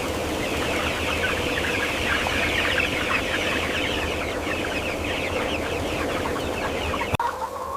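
A large flock of chickens peeping and clucking all at once: a dense chatter of many short, falling peeps over a low steady hum. About seven seconds in, it cuts abruptly to a different stretch of flock sound.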